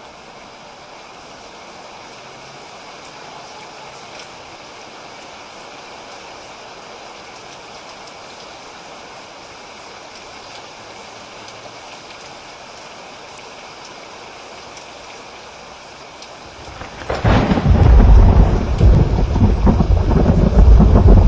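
Steady rain falling, then about three-quarters of the way through a thunderclap breaks in suddenly and rolls on as a loud, deep rumble over the rain.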